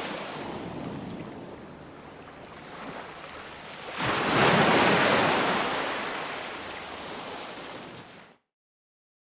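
Ocean waves breaking and washing. One wave breaks about four seconds in, swells and then fades, and near the end the sound cuts off abruptly into silence.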